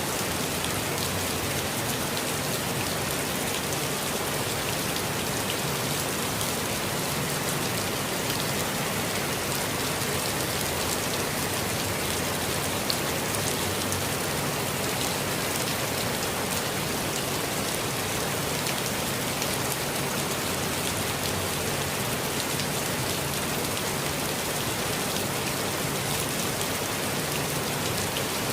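Steady rainfall, a dense even patter of raindrops on surfaces with fine individual drop ticks, unchanging throughout.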